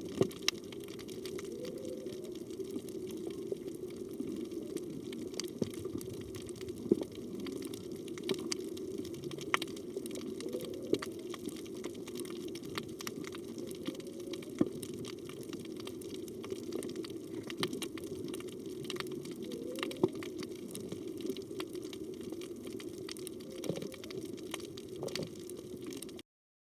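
Underwater ambience: a steady low rush of water with scattered sharp clicks. A few times, faint short rising calls come through, taken to be humpback whale song. The sound cuts off suddenly near the end.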